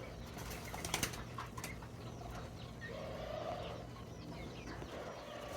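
Pigeons and doves in a pen: a low coo about three seconds in, with a few wing flaps and light knocks near the start.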